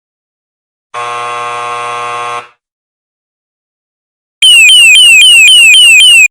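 An electronic buzzer sounds once, a flat steady buzz lasting about a second and a half. About two seconds later comes a louder electronic alarm: a tone that sweeps down in pitch about four times a second, then cuts off suddenly.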